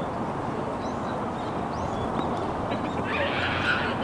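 Birds calling outdoors: short high chirps scattered throughout, with a louder, harsher call about three seconds in, over a steady background rush.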